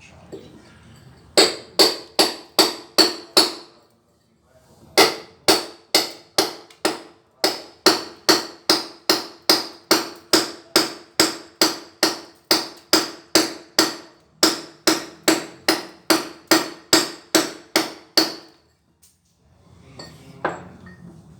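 Hammer blows chipping out old ceramic wall tiles, struck steadily about two a second, each blow ringing briefly. The blows come in three runs, with short pauses about four and fourteen seconds in, and stop about eighteen seconds in.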